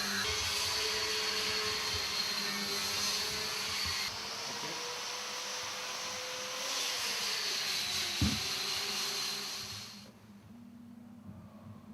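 Ruwac SPS250 industrial chip-and-coolant vacuum running with a steady hiss and high whine; its hum rises in pitch around the middle and drops back, with a single knock about eight seconds in. The machine's sound falls away about ten seconds in.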